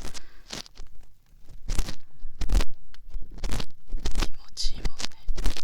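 Ear pick scraping and rubbing inside the ear of a binaural microphone, close and loud: a run of irregular short scratchy strokes, several a second.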